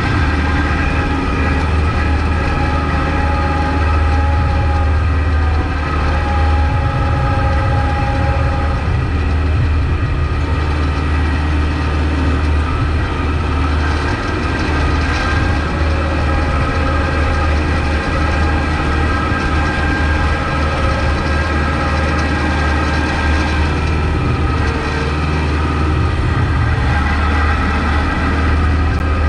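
Kubota MX5200 tractor's four-cylinder diesel engine running steadily under load while plowing snow, a deep drone with a steady whine over it.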